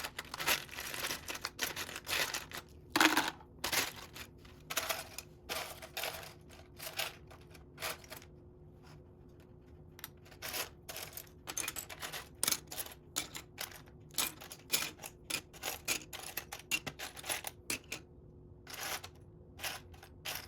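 Plastic Lego bricks clicking and clattering as they are handled, sorted and pressed together, in quick irregular runs of clicks with a couple of brief pauses. A faint steady hum sits underneath.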